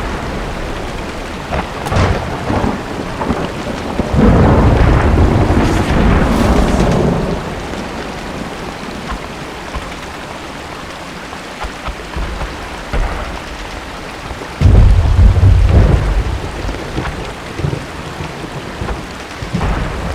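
Steady rain with two long, low rumbles of thunder: one starting about four seconds in and rolling for some three seconds, another about fifteen seconds in. Short, sharp cracks of distant gunfire are scattered throughout.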